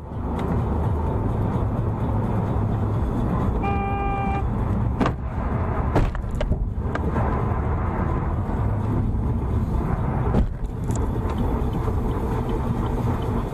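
Steady road and vehicle noise from traffic, with a car horn honking once for under a second about four seconds in. A few short sharp knocks come later.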